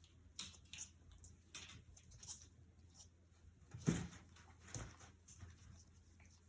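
Corgi puppies scuffling and pattering about in their pen, with a thump about four seconds in.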